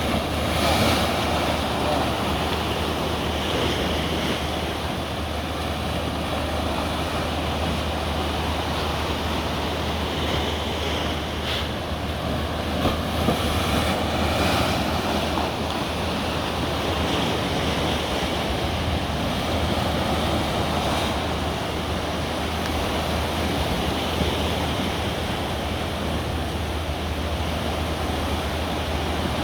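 Ocean waves breaking and washing in a steady surf, with some wind noise on the microphone.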